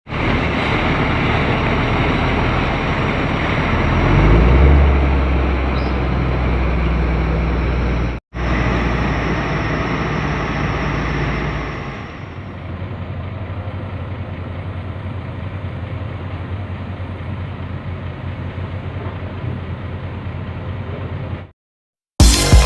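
Heavy diesel coal-hauling truck running, a steady low engine rumble that swells as a truck comes close about four seconds in. The sound breaks off for an instant around eight seconds, drops quieter past the middle, and cuts off near the end.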